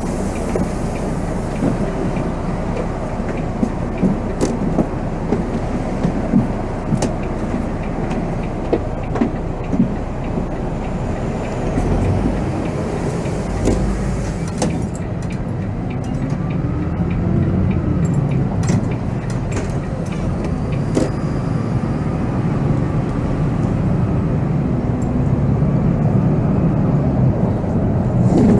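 Volvo B7R coach on the move, heard from the driver's seat: steady diesel engine rumble and road noise, with short rattles and clicks through the first half. The engine note rises partway through as the coach gathers speed.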